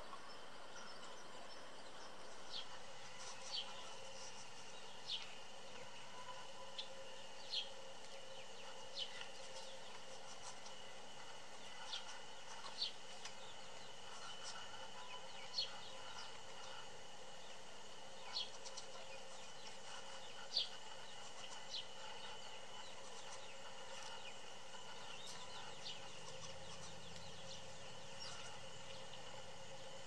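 Wild songbirds giving short, sharp single chirps, each a quick downward sweep, scattered every second or two and stopping about eight seconds before the end, over a faint steady background hum.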